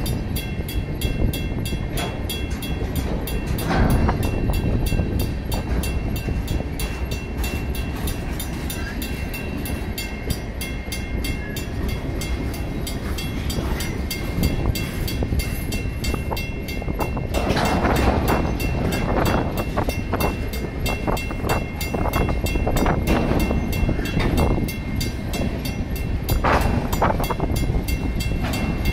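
Freight train of empty center-beam flatcars rolling through a grade crossing: steady wheel-and-rail rumble and rattle, with sharper clanks and squeals coming through in the second half. The crossing signal's mechanical bell rings steadily over it.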